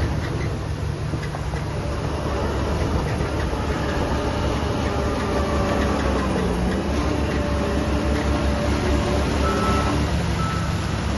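Diesel engines of heavy construction machinery running with a steady low rumble, their pitch shifting briefly about midway. Near the end a reversing alarm beeps twice.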